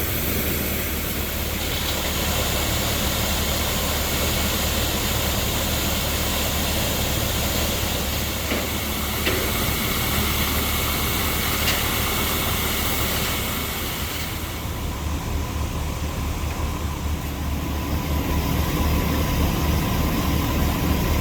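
A vehicle engine idling with a steady low throb under an even rushing hiss. About fourteen seconds in, the hiss drops away and the engine's pulsing throb stands out.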